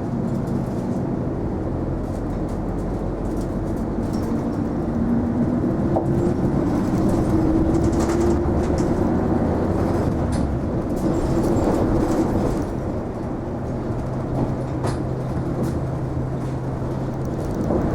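Isuzu Erga low-floor city bus heard from inside the cabin while driving: a steady engine hum with a whine that climbs slowly in pitch over the first half. The sound grows a little louder through the middle and eases back about two-thirds through.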